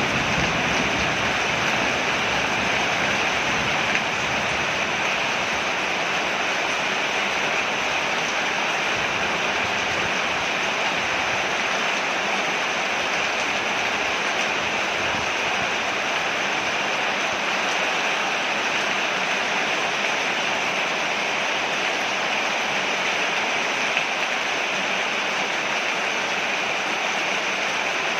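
Steady heavy rain falling on a porch, an even hiss with no let-up. A low rumble of thunder dies away in the first couple of seconds.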